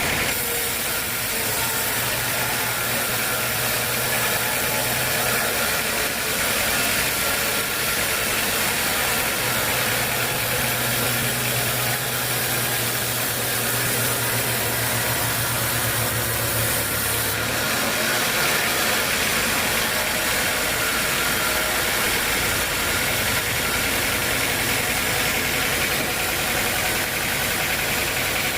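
Sawmill machinery running steadily: a constant loud mechanical noise with a low hum that comes and goes, the sound shifting about two-thirds of the way through.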